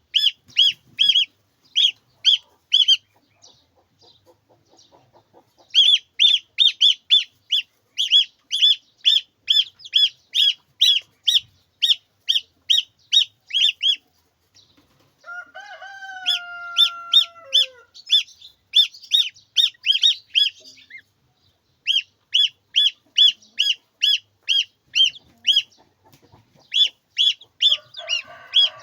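Chick peeping loudly and repeatedly, about two or three high peeps a second in long runs with short breaks. In the middle an adult chicken gives one longer, lower call that drops in pitch at the end.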